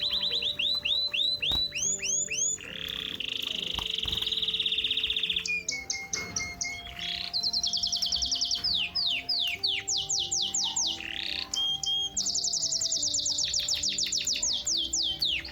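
A songbird singing a long, varied song of rapid repeated whistled notes and trills, changing phrase every few seconds, mostly quick falling sweeps with some steady rolls. Soft background music of held notes plays underneath.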